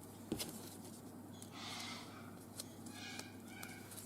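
Craft knife cutting thin craft foam: a sharp tap as the blade goes in, then short scratchy cutting strokes with a faint squeak near the end.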